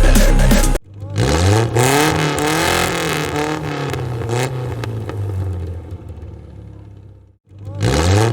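Music cuts off just under a second in. Then a car engine revs up, holds at high revs with its pitch wavering, and fades away. A second rev-up begins near the end.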